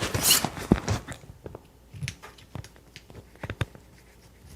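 Scattered light clicks and knocks from handling a bicycle wheel and tools, with a short rustling scrape near the start; the clicks grow sparser after about a second.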